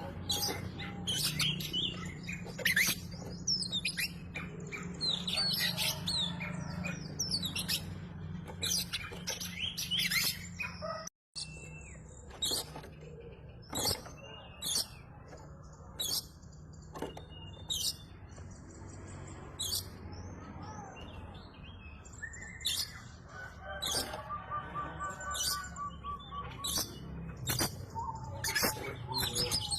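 Oriental magpie-robin singing a long, varied song of rapid whistles and chirps, the kind of full song used to lure other kacers into singing. The song cuts out completely for a moment about eleven seconds in, over a steady low hum.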